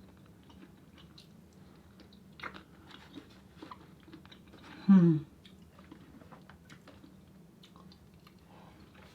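A person chewing and eating close to the microphone, with soft scattered mouth clicks. About five seconds in there is one short, loud hum from the eater.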